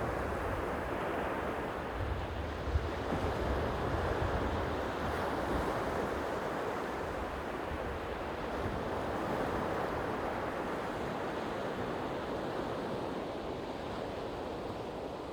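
Sea waves washing steadily on the shore, with a low rumble of wind buffeting the microphone.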